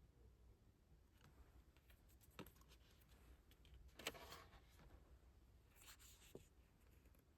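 Faint handling of a K-pop album's packaging: scattered soft taps and clicks, with a brief rustle of paper or plastic about four seconds in and another near six seconds.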